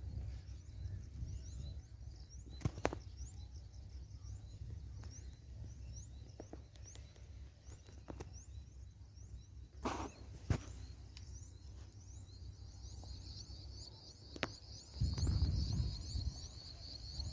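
Outdoor rural ambience: a constant run of short, quick, high chirps over a low rumble, joined about twelve seconds in by a steady high-pitched buzz, with a few sharp clicks scattered through.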